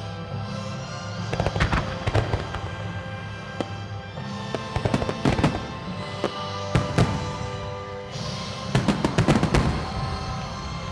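A wide starmine of aerial firework shells bursting in rapid clusters of sharp bangs and cracks, in four volleys with the last the loudest. Music from loudspeakers plays steadily underneath.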